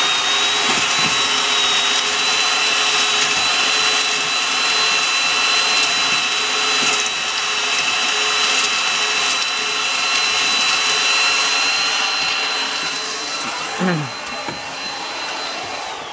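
Electric drill with a mixing paddle running at steady speed, churning mortar; its motor whine winds down and stops at the end.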